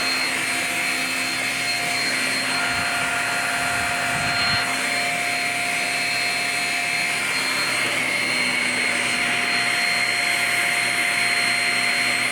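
Shark Rocket self-cleaning stick vacuum running steadily on carpet: a constant motor whine with several held tones over a rushing airflow.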